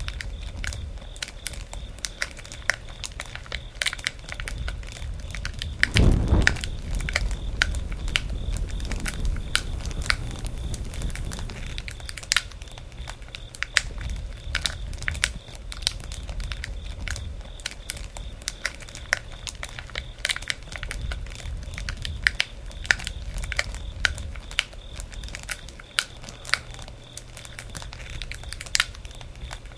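Campfire crackling and popping, with dense irregular snaps over a low steady bed of burning. About six seconds in, a brief low rumble rises and fades.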